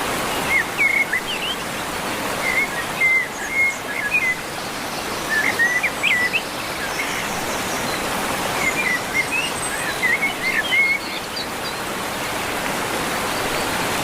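Steady rush of running water, with small birds chirping in short twittering phrases every few seconds.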